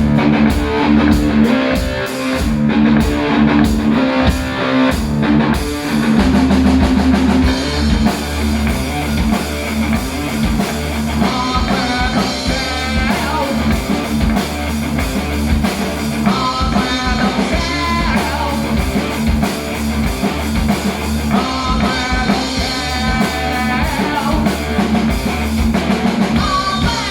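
Heavy metal band playing live: distorted electric guitars and a drum kit, with choppy, hard-hit accents for the first few seconds, then a steady full-band passage with a wavering melody line over it.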